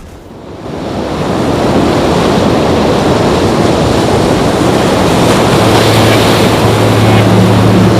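Loud, steady rushing of water, building up over the first second or so. A steady low hum joins about five seconds in.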